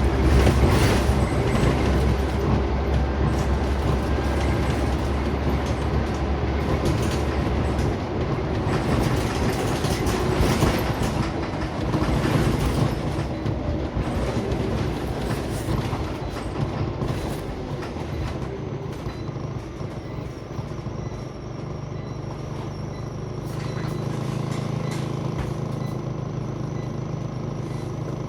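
Inside a Scania Omnicity single-deck bus on the move: diesel engine and road noise with interior rattles, settling to a quieter, steadier engine hum from about nineteen seconds in.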